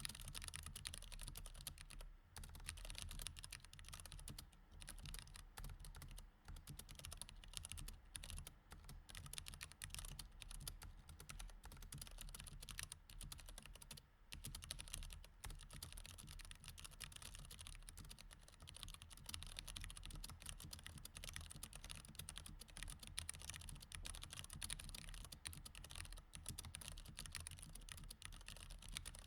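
Mechanical keyboard with Cherry MX Red switches being typed on steadily: a dense, even stream of key clicks, broken by short pauses about two seconds in and again about halfway through.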